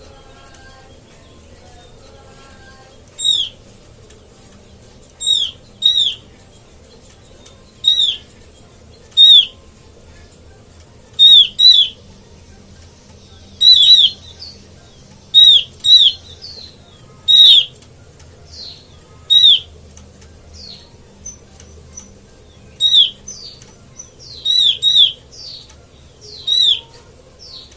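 Opior lure call: loud, short, downward-curving whistled notes, single or in quick pairs, repeated every second or two. Fainter, higher notes come in between during the second half.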